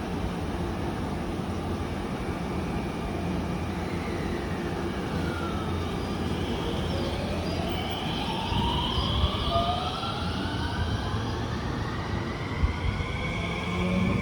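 Electric train running with a steady rumble; from about halfway through, the whine of its traction motors rises steadily in pitch as it picks up speed.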